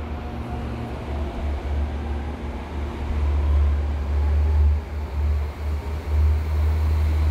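Electric commuter train running through the station: a steady low rumble that swells and dips, with a faint motor whine that fades out in the first few seconds.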